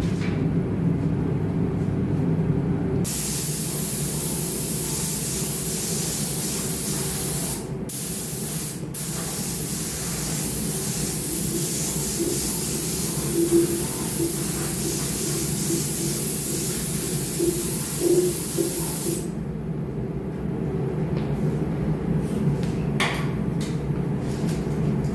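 Paint being sprayed onto motorcycle wheels: a steady spraying hiss that starts about three seconds in, breaks off twice briefly, and stops a few seconds before the end. A steady low hum runs underneath.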